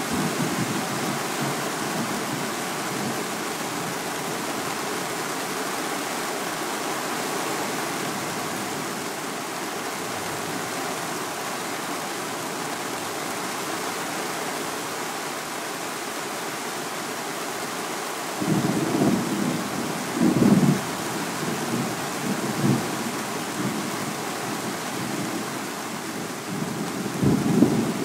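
Heavy rain falling steadily, joined about two-thirds of the way through by several low, uneven rumbles of thunder.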